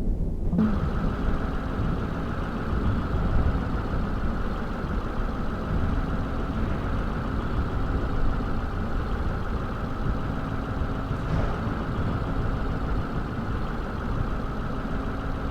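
Motor vehicle running steadily, a low rumble with a faint constant hum over it, starting and stopping abruptly.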